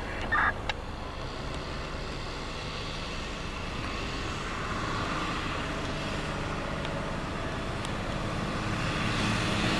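Fire truck engine approaching, its low hum growing steadily louder. A brief loud high-pitched tone sounds about half a second in.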